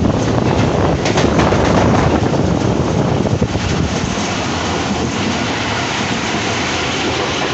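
Passenger train running at high speed, heard from an open door: wind buffeting the microphone over the loud rumble of the wheels on the track, with a few sharp clicks about a second in and a brighter hiss from about five seconds in.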